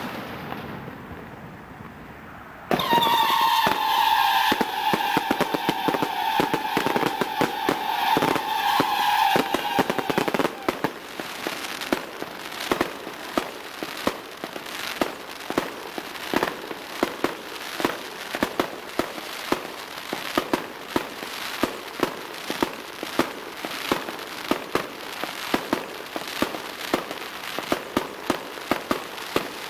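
Consumer fireworks going off. From about three seconds in, a loud steady whistle with crackling lasts until around ten seconds. It is followed by a rapid run of sharp pops and bangs, two or three a second, that keeps going.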